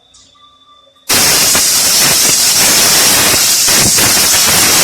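Compressed-air blow gun hissing in one long, steady, loud blast that starts about a second in.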